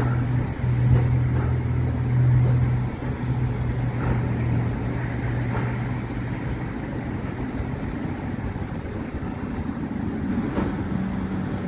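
Multiple-unit train moving slowly through a depot carriage wash: a steady low hum over a rush of noise. The hum fades out about seven seconds in, with a few faint clicks along the way and a fainter hum starting near the end.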